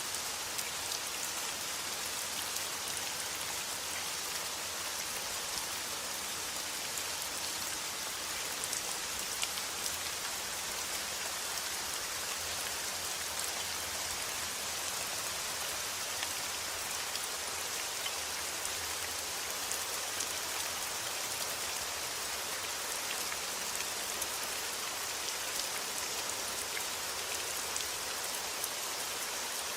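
Steady rain falling: an even hiss of rain with scattered sharper ticks of individual drops.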